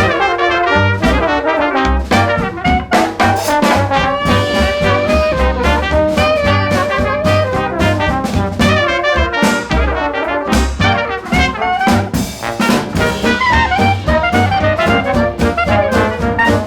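Fast instrumental swing jazz with a brass section of trumpets and trombones playing over a driving beat.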